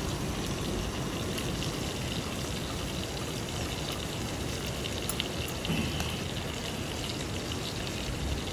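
Brown trout sizzling in a frying pan: a steady hiss with a few faint clicks about five seconds in.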